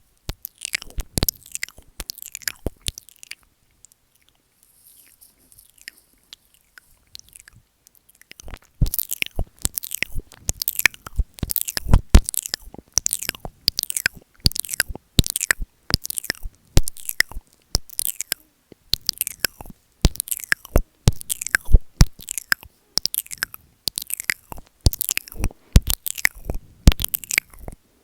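Close-miked ASMR mouth sounds on the microphone: wet clicks and smacks of lips and tongue as the mic is licked and nibbled. A few clicks come first, then a pause of several seconds, then a steady run of clicks from about a third of the way in, roughly two a second.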